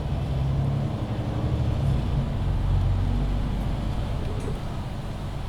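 Diesel engine of a MAN Lion's City 19C EfficientHybrid articulated bus with a Voith automatic gearbox running under way, heard from inside the bus over tyre and road rumble; the engine note shifts in pitch about two to three seconds in.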